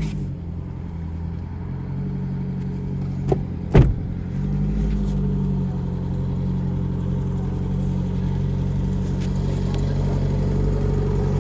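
An engine idling steadily, with a sharp knock about three seconds in and a louder one half a second later.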